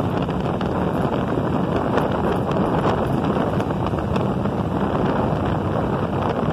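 Wind buffeting a phone microphone mounted on a moving motorcycle, a steady rushing noise over the faint hum of the motorcycle's engine.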